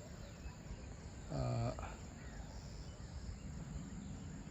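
Faint, steady chirring of insects such as crickets over low background noise, with one short spoken word about a second and a half in.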